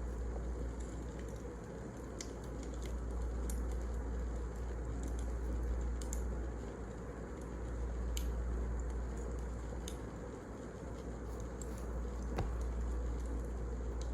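Burning firewood crackling: irregular sharp snaps and pops over a steady low rumble.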